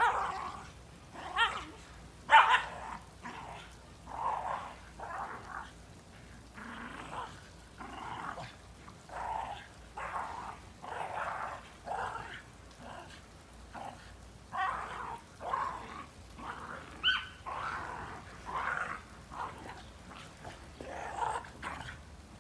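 Shiba Inu growling and barking in rough play: a string of short, gruff growls and barks about once a second, loudest in the first few seconds.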